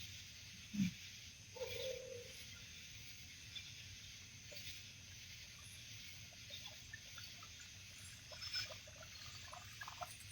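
Faint night-time ambience on the water: a steady high hiss with small trickles and drips of water, a brief low knock about a second in, and scattered light ticks.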